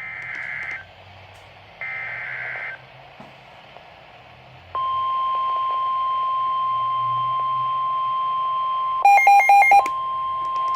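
NOAA Weather Radio alert broadcast: the last two screechy digital SAME header bursts, then, almost five seconds in, the steady single-pitch 1050 Hz warning alarm tone that signals a warning is being issued. About nine seconds in, a quick run of higher electronic beeps cuts briefly across the tone.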